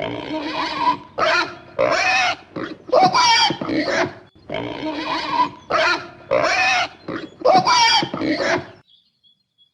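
Domestic pig grunting and squealing in a quick series of about ten short calls, which stop near the end.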